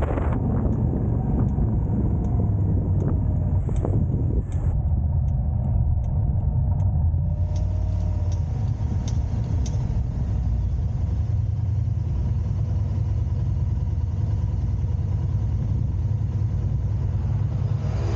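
Car driving on the road: a steady low rumble of engine and tyre noise, with faint regular ticks over the first several seconds.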